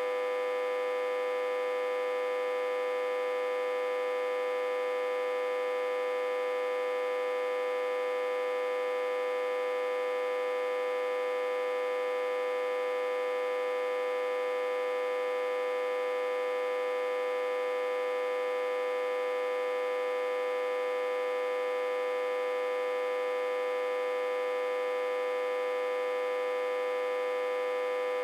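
Autotransformer humming steadily, reverse-connected to a step-down transformer with about 60–80 V input. One strong mid-pitched tone with many overtones above it, unchanging throughout.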